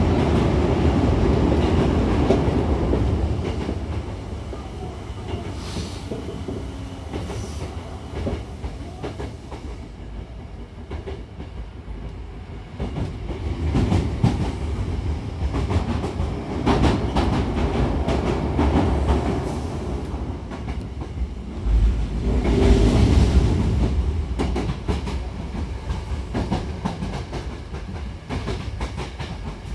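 Hankyu 9000-series commuter train running, heard from inside the passenger car: a steady rumble with wheels clacking over rail joints. The noise is louder for the first few seconds and again about three quarters of the way through.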